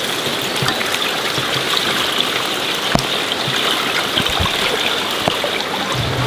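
Steady rush of water, as of rain or running water, with scattered small drips and clicks.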